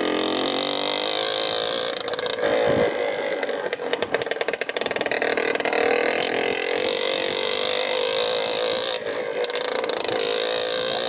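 Motorcycle engine running steadily, its pitch wavering slightly, with a stretch of rapid clatter between about two and five seconds in.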